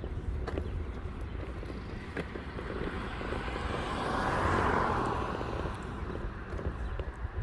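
A passing vehicle, its noise swelling to a peak about four and a half seconds in and fading away, over a steady low rumble of wind on the microphone.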